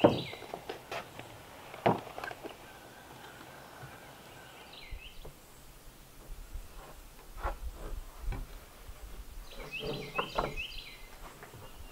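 A songbird singing a short phrase of quick, repeated downward chirps, heard near the start and again about ten seconds in, over scattered knocks and clicks.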